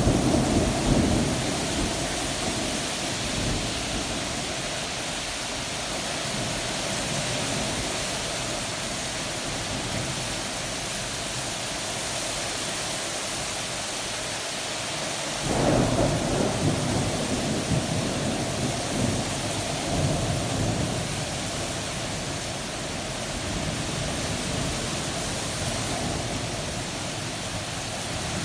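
Thunderstorm: steady heavy rain with rolling thunder. A rumble fades out over the first couple of seconds, and another breaks in suddenly about halfway through and rolls on for several seconds before dying back into the rain.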